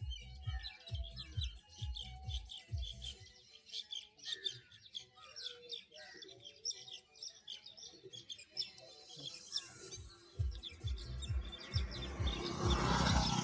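Many birds chirping and twittering rapidly, with short calls that slide downward, over electronic music whose low beat drops out in the middle and returns near the end. A loud rush of noise rises near the end.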